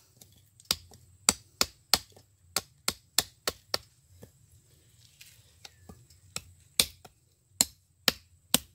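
Sharp chopping strikes of a blade into wood, in short runs of a few blows about three a second with brief pauses between.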